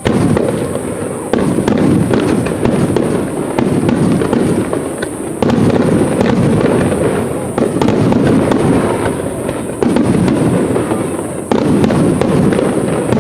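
Aerial fireworks display: shells bursting in about five loud booms a second or few apart, each followed by dense crackling.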